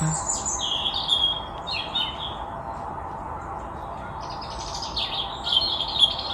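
Songbirds singing in short bursts of chirps, with a lull in the middle and busier singing near the end, over a steady background hiss.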